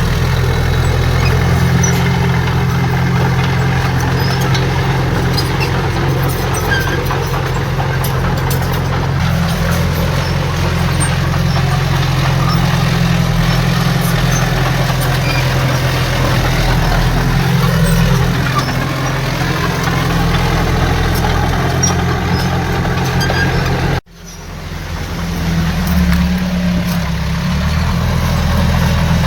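Heavy diesel engine of earthmoving machinery running steadily with a deep, even hum. About three-quarters of the way through the sound cuts out abruptly and fades back in over a couple of seconds.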